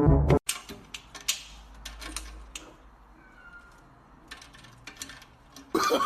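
Brass music cuts off just after the start. Then a quiet stretch of scattered light clicks and taps, with a faint short cry about three seconds in. Music and a voice come back in near the end.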